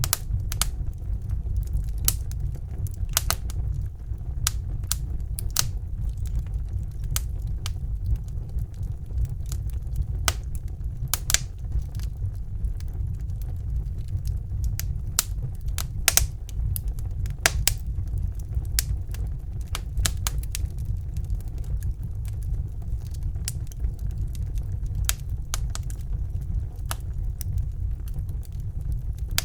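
Wood fire burning in a fireplace: a steady low rumble of the flames with irregular sharp crackles and pops from the burning logs, a few louder pops scattered through.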